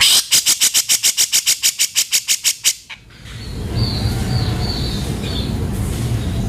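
Cucak jenggot (grey-cheeked bulbul) giving a fast, harsh rattling chatter of about seven notes a second for nearly three seconds. After it comes a steady low rumbling noise with a few faint, short high chirps.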